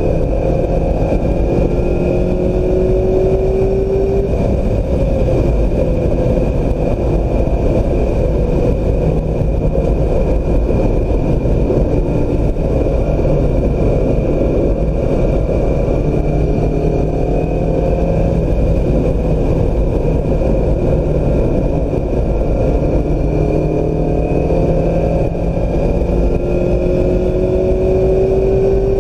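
2016 Mazda MX-5 Miata's four-cylinder engine driven hard on a race track. The revs climb in the first few seconds and again over the last several seconds, with a stretch of steady engine, wind and tyre noise in between.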